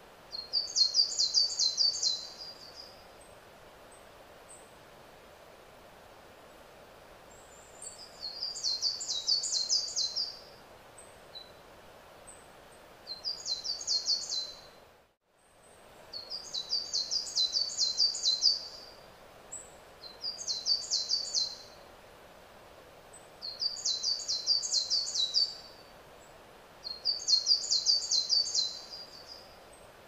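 A songbird singing: seven phrases of rapid, repeated high notes, each lasting one to three seconds, with pauses of a few seconds between them and a few single high call notes in the gaps, over a steady faint outdoor hiss. The sound drops out briefly about halfway through.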